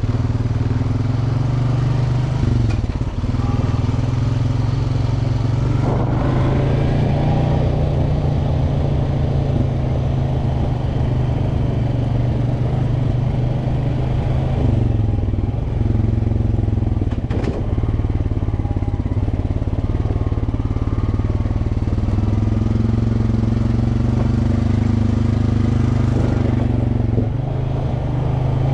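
Off-road vehicle engine running steadily as it is ridden along a rough trail, with a few brief knocks and clatter from the ride.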